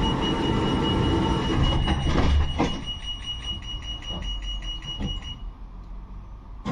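Tram running, heard from inside the car: a steady rumble with a steady high whine and rapid ticking at about five a second, both of which stop suddenly about five seconds in.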